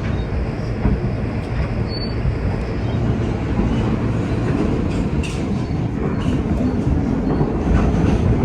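New York City subway train running along the track, heard from on board: a steady rumble with scattered wheel clicks and a brief, faint high wheel squeal about two seconds in.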